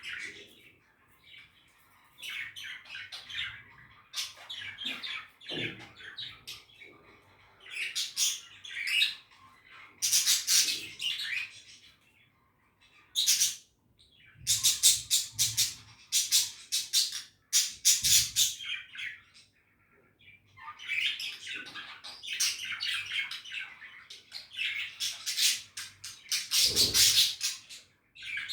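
Budgerigars chattering and chirping in quick, busy bursts, with a couple of short pauses along the way.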